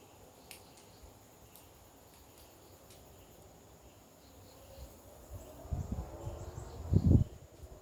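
Steady high-pitched insect drone with a few faint ticks. About five seconds in come low thumps, and about seven seconds in a single loud bump.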